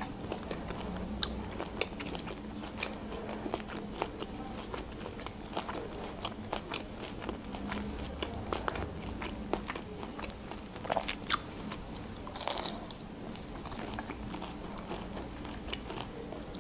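Close-miked chewing of tempura-battered shrimp: a steady run of small crunches and mouth clicks, with a few louder crunches about eleven to twelve seconds in.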